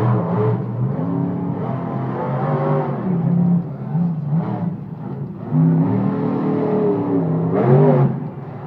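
Monster truck engine revving hard, its pitch climbing and falling again several times, loudest near the end.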